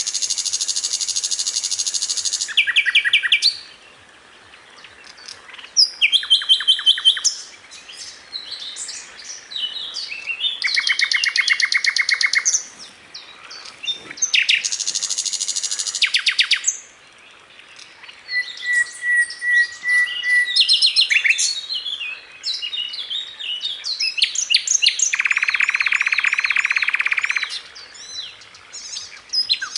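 Songbird song from a masteran tutor recording: phrases of very fast high trills, each about two seconds long, with short pauses between them and varied chirps in between. A short steady whistle comes about two-thirds of the way in, and a lower buzzy phrase near the end.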